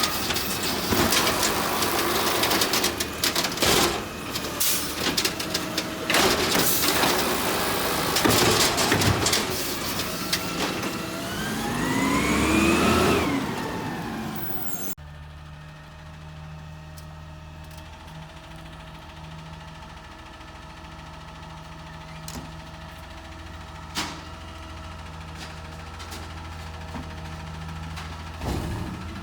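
Garbage truck at work: clanks and knocks over its engine, which revs up with a rising pitch shortly before halfway. Then a sudden cut to the truck's engine idling steadily, with an occasional click.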